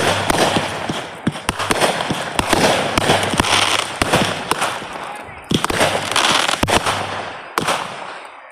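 Fireworks going off in quick succession: dense crackling and sharp pops in waves that build and fade, then a few separate bangs near the end.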